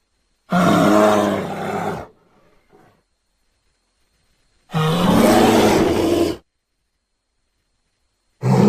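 Bear vocalizations: two low, throaty calls of about a second and a half each, separated by dead silence, and a third beginning near the end.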